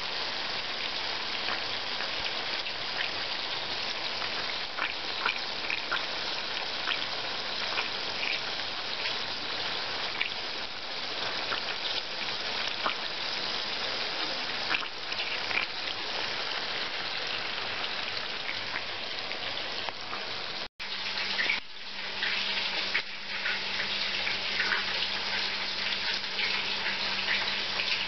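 Chicken-mince cutlets frying in oil in a pan: a steady sizzle with scattered crackles and pops. The sound cuts out for an instant about three-quarters of the way through, then the sizzle resumes.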